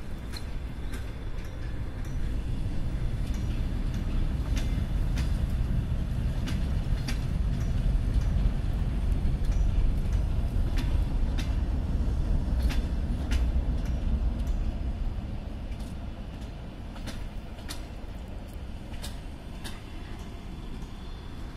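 Passenger train running slowly over station tracks: a low rumble of wheels on rail with a scatter of sharp clicks as the wheels cross rail joints. The rumble eases off after about fifteen seconds.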